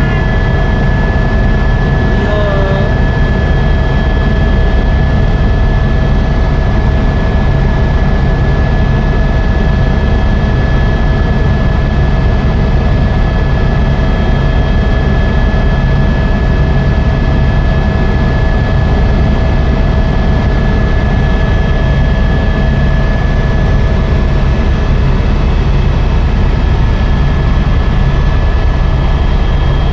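Helicopter in flight: a loud, steady drone of engine and rotor with a constant high whine over it.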